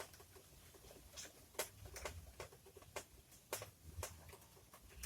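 Faint, irregular clicks and crackles, about ten scattered across a few seconds, over soft low thumps.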